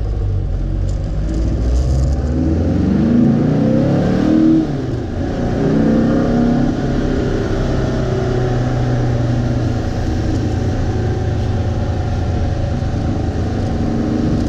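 Modified VW Beetle's 2387 cc air-cooled flat-four accelerating hard, heard from inside the cabin. The engine note climbs, drops briefly at a gear change about four and a half seconds in, climbs again, then holds a steady note.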